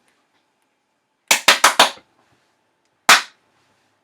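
Five sharp impacts: four in quick succession about a second in, then a single one about a second later.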